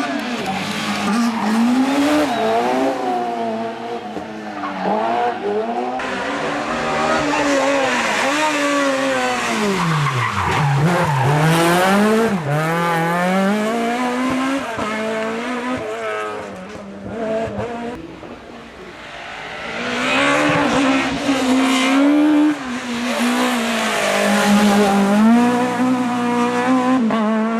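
Rally kit car engines at full stage pace, revving hard and rising and falling in pitch with each gear change and lift. About ten seconds in, a car's note sweeps sharply down as it passes; the sound changes abruptly a few times as it moves from one car to the next.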